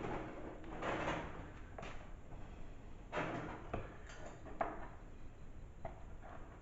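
Faint, scattered clicks and scrapes of a small sheet-metal patch and a measuring tool being handled while a 1-inch mark is measured.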